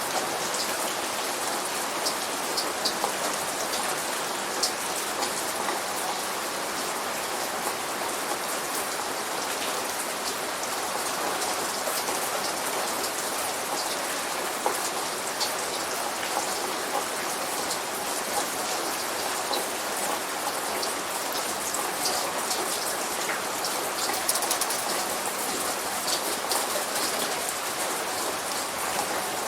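Steady light rain falling, a constant hiss with many small drops pattering on a surface.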